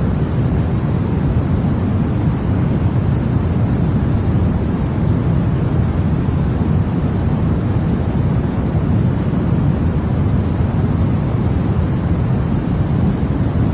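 Continuous white noise for lulling a baby to sleep: an even, unchanging hush with most of its weight low down, deep rather than hissy, with no breaks or events.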